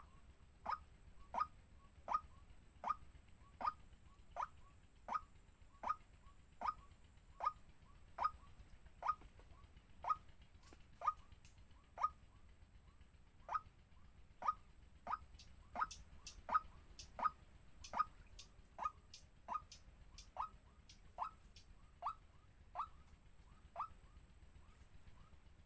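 A bird's short call repeated steadily, about one and a half calls a second, each a quick note dropping in pitch.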